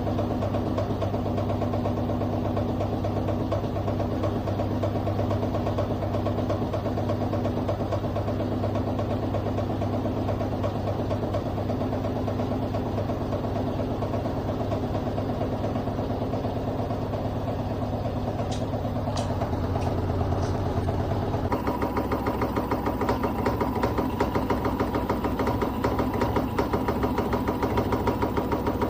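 LG washing machine's motor and drum running steadily during the spin cycle, with a few faint high squeaks; about twenty seconds in, the running sound shifts to a busier, faster pattern and grows a little louder.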